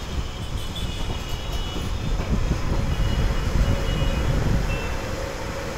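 Train running along the track, heard from on board: a steady low rumble.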